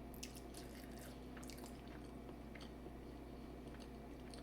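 Faint chewing: a person eating, with small wet mouth clicks and smacks scattered through, over a steady low hum.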